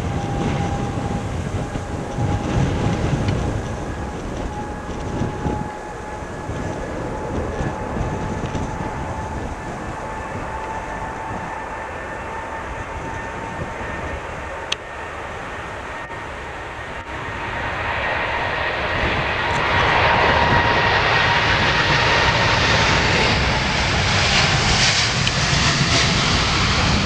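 Boeing 787-10 airliner taking off: the turbofans' whine rises slowly in pitch over steady engine noise, then the engine noise grows much louder and fuller about two-thirds of the way in as the jet passes close.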